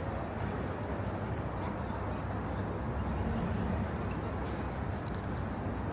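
Steady outdoor city ambience: a low, even rumble of traffic-like noise, with a few faint, short, high chirps about two to four seconds in.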